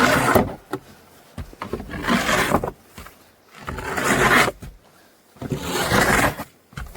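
Snow shovel scraping and pushing through snow, four strokes about two seconds apart.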